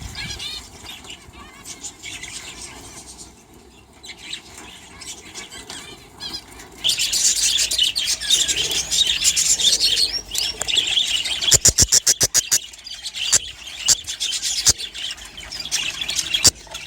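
A flock of budgerigars chattering and chirping in an aviary, growing much louder and busier about halfway through. Partway through there is a quick run of wing flaps.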